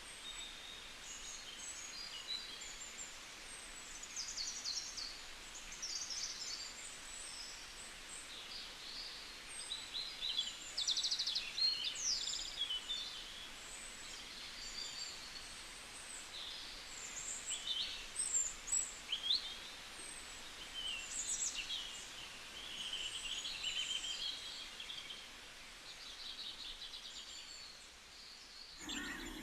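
Many birds chirping and calling over one another in short, high-pitched notes and trills, over a steady background hiss.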